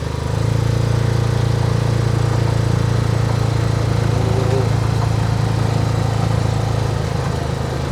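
Small ferry boat's engine running in a steady low drone as the ferry comes in. It grows louder just after the start.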